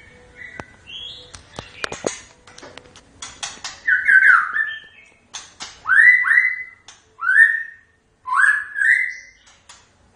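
White-rumped shama (murai batu) singing a varied song. It opens with sharp clicks and short high notes, then from about halfway gives loud rising whistled notes, repeated several times.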